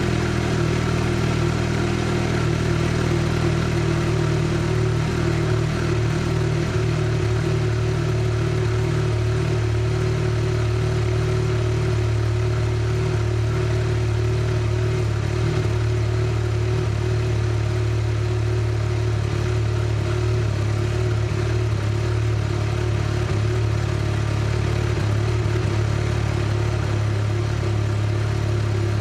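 Mazda RX-7 FC3S's 13B twin-rotor turbo rotary engine running steadily at a constant speed, its pitch and loudness unchanging.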